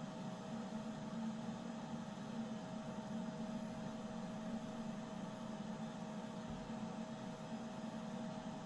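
Steady hum with a faint thin higher tone above it, unchanging throughout.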